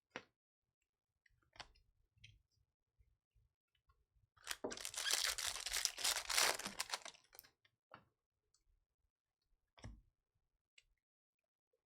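Trading-card pack wrapper and cards being handled: a rustling, crinkling stretch of about three seconds in the middle, with a few scattered light clicks before and after.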